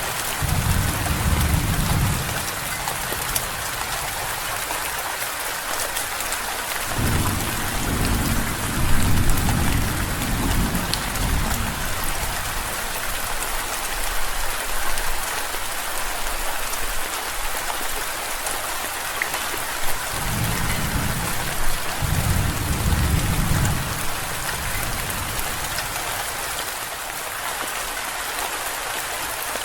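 Steady, heavy rain falling, with three rolls of low thunder rumbling: one at the start, a longer one about a quarter of the way in, and another past two thirds of the way through.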